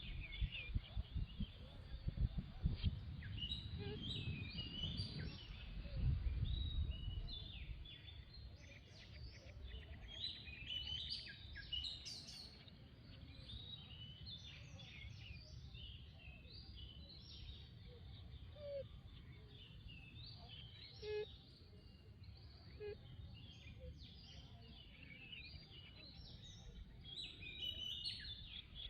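Songbirds chirping, many short calls and trills overlapping, with a low rumble of wind or handling noise during the first several seconds.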